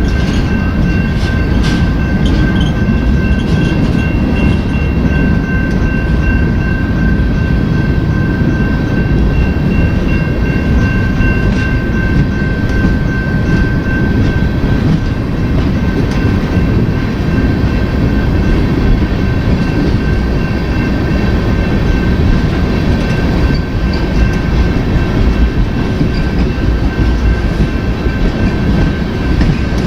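Freight train rolling past close by, a loud steady rumble of cars on the rails with a few clicks from the wheels. A steady high squeal rides over it and fades out about halfway through.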